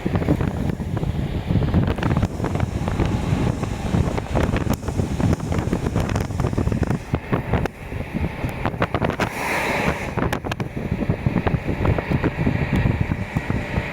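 A KiHa 40 series diesel railcar running, heard from inside the cabin: a steady low rumble from the engine and running gear, with clicks and clatter from the wheels on the track. A brief hiss comes a little past the middle.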